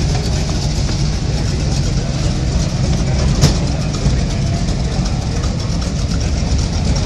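Ford Maverick's engine idling with a steady low rumble. A single sharp click comes about three and a half seconds in.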